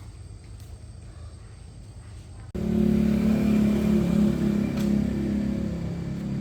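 A faint low hum, then about two and a half seconds in, a pickup truck's engine running cuts in suddenly and loud, holding steady and easing off slightly near the end.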